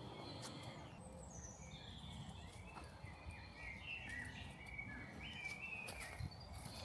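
A songbird singing a run of short, quick chirping notes, starting about a second and a half in and stopping near the end, faint over a low rumble.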